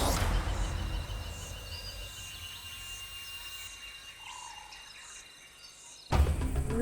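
Quiet natural ambience of insects: a faint steady high trill with short high chirps repeating a little more than once a second, after a louder passage fades out over the first two seconds. A loud sound cuts in abruptly near the end.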